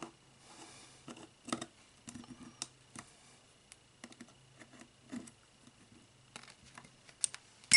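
Small clicks and light scrapes of a screwdriver and small metal scope parts being handled while the two screws holding the turret assembly are taken out, ending in one sharp metallic clink with a brief ring.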